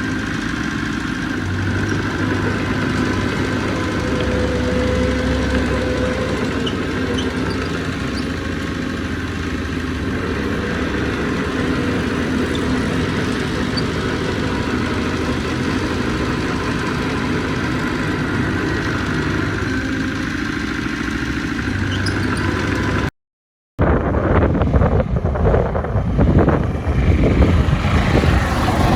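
Heavy diesel engine of earthmoving machinery running steadily. About 23 seconds in the sound cuts out for a moment and comes back as louder, rougher rushing noise.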